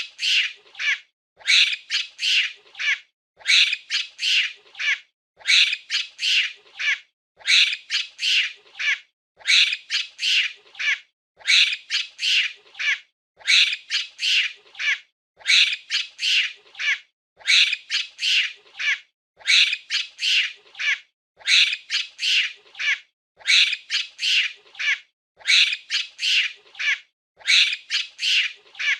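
Monkey giving short, high-pitched squealing calls in quick clusters of four or five. The cluster repeats very evenly about every two seconds as a looped recording.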